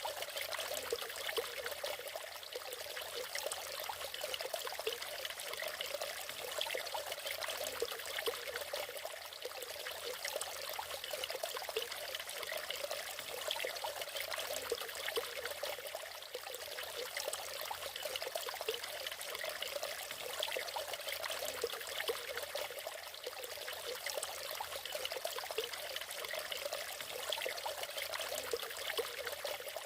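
Small natural waterfall: water splashing and trickling steadily, light and bright, with little deep rumble.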